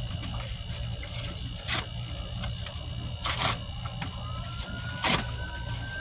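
Three short rustling bursts, about a second and a half apart, from cardboard being handled. From about four seconds in, a distant siren wails faintly, its pitch slowly rising.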